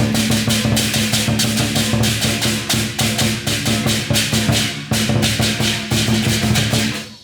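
Barongsai (Chinese lion dance) percussion: a large drum beaten in fast, steady strokes with crashing cymbals over a held low ringing tone, breaking off abruptly near the end.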